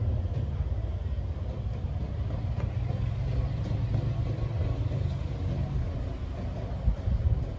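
Small two-stroke cultivator engine running steadily with a low rumble.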